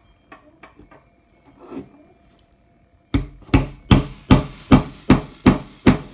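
Hammer driving short nails into the soft wood of a kids' wooden kit: a few light taps, then from about three seconds in a steady run of sharp blows, about two and a half a second.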